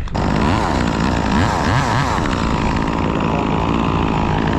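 Chainsaw engine running and being revved, its pitch rising and falling several times, starting abruptly.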